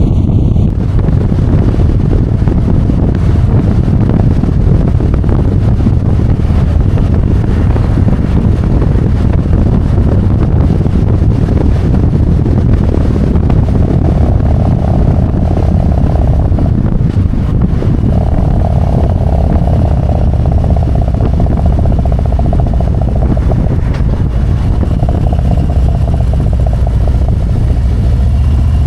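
Harley-Davidson Road Glide's V-twin engine running at riding speed under heavy wind noise, a steady rumble. A higher steady drone comes and goes in the second half.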